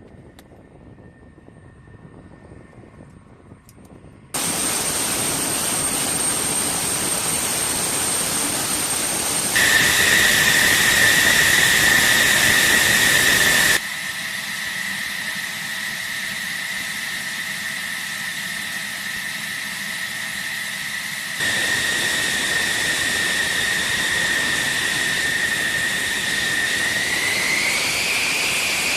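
F-16 jet engine whine and rush in a string of cut shots, a steady high whine over loud engine noise that changes abruptly at each cut. Near the end the whine rises in pitch as the engine spools up.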